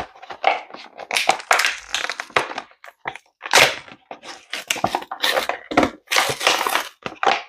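Irregular crinkling, crackling and tearing of a diecast toy truck's cardboard and plastic packaging being handled and opened.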